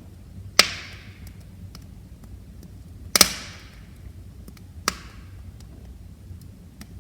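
Wood fire crackling in a fireplace. Three loud sharp pops come at about half a second, three seconds and five seconds in; the middle one is the loudest and double. Each pop has a short hiss trailing off, over faint small crackles and a low rumble of the flames.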